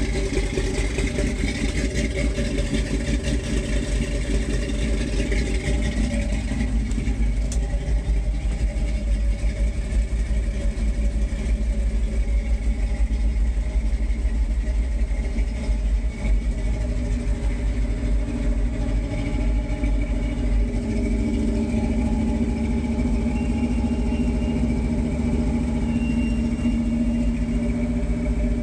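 Carbureted Ford V8 of a 1978 F-150, fed by a Holley 4160 four-barrel and breathing through headers and dual Flowmaster exhaust, idling steadily after a cold start. The note shifts slightly about seven seconds in and again about twenty seconds in.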